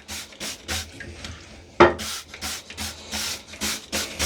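A toilet being cleaned by hand: a quick run of short swishing strokes, about three or four a second, as cleaner is sprayed on and the bowl is worked over.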